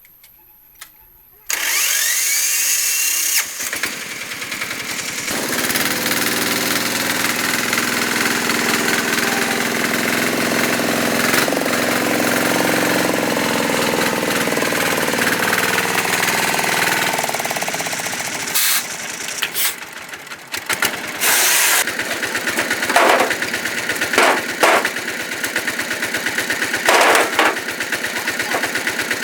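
A motor-driven machine starts suddenly and runs steadily with a low hum, then switches on and off in short bursts near the end.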